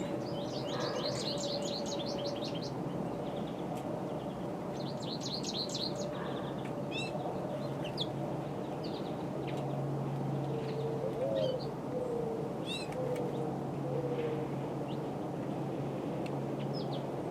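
Small birds chirping and trilling in short bursts. In the middle comes a series of four lower calls. A steady low hum runs underneath.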